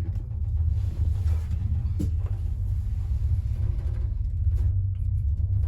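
Steady low rumble while riding in an aerial tramway gondola cabin on its cable, with one short click about two seconds in.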